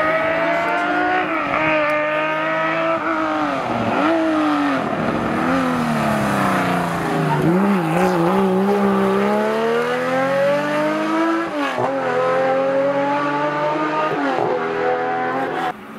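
Air-cooled Porsche 911 rally car's flat-six engine through a hairpin: the revs fall in steps as it brakes and downshifts, then climb as it accelerates hard out, with quick breaks at the gear changes. A rally engine is still heard at the end, after a cut.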